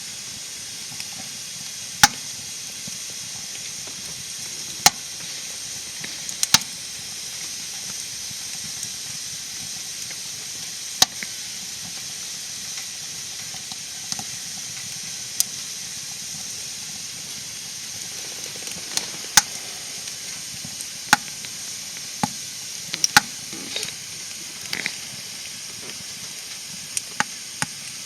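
Wood fire crackling in a fire pit: a steady hiss with irregular sharp pops, coming closer together in the last few seconds.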